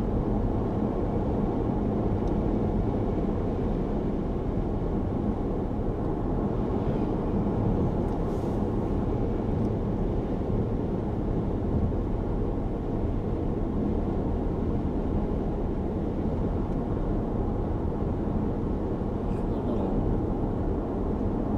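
Steady road and engine noise heard inside the cabin of a moving car, an even low rumble with no sudden events.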